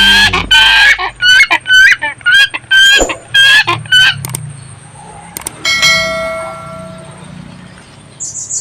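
A bird calling loudly in a rapid series of short, pitched notes, about three a second, each ending in a slight upward flick, until about four seconds in. About six seconds in, a single ringing, bell-like tone sounds and fades.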